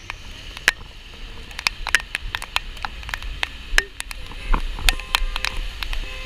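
Raindrops hitting the camera in quick, irregular clicks, over a steady hiss of rain and a low rumble of city street noise.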